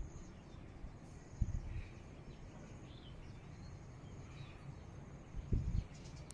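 Faint outdoor ambience: a bird giving short calls about once a second, with two low gusts of wind buffeting the microphone, about a second and a half in and near the end.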